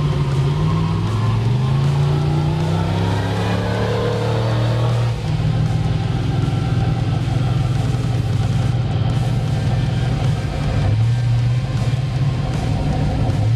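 Big off-road truck engine revving up over the first few seconds, then running steadily after an abrupt change about five seconds in, with background music.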